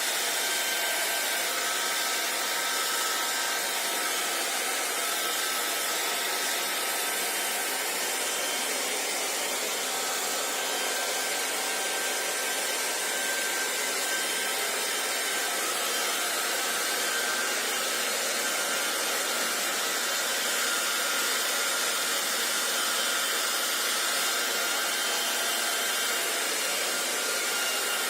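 Hand-held hair dryer running continuously, an even blowing hiss with a faint steady motor whine and no change in speed.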